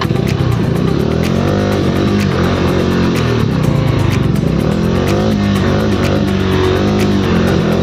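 Motorcycle engine running under load, its note rising and falling again and again as the throttle is worked.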